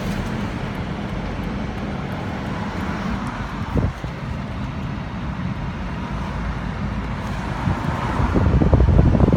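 Car driving along: steady engine and road rumble, with a single thump about four seconds in, growing louder near the end.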